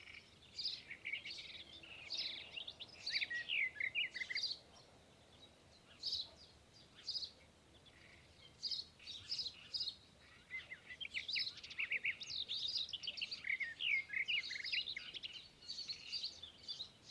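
Birdsong played through a television speaker: many small birds chirping and trilling in quick clusters, with short lulls around two, seven and ten seconds in.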